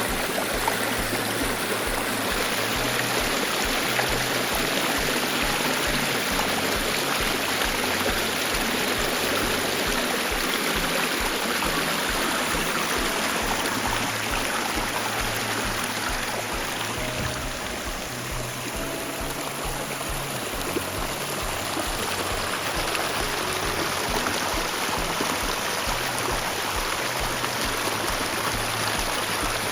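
Valley stream water running steadily, an even rushing with no breaks.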